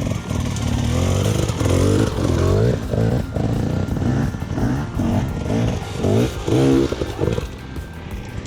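Dirt bike engine revving hard over and over, its pitch climbing and dropping back about once a second, then easing off near the end.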